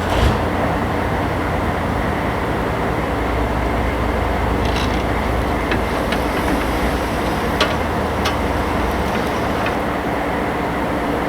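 Vehicles rolling slowly over rough ground as a stripped truck is pulled on a strap: a steady rumble of tyres and chassis with a low hum and occasional clicks and rattles.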